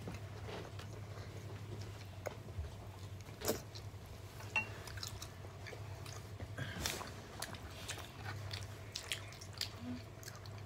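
A child chewing food with scattered soft smacks and clicks of the mouth, over a steady low hum.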